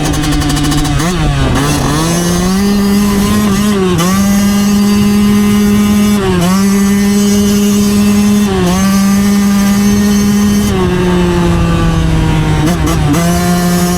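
Yamaha YZ125's 125 cc single-cylinder two-stroke engine being ridden hard. The revs waver up and down at first, then hold high and steady with brief throttle dips that pick up again about every two seconds.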